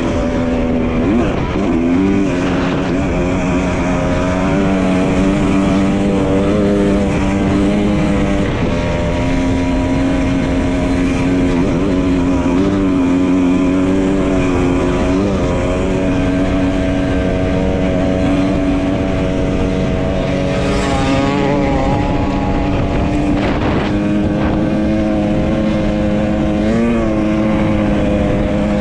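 Dirt bike engine running steadily under way, its pitch holding mostly level with a few brief dips and rises as the throttle changes.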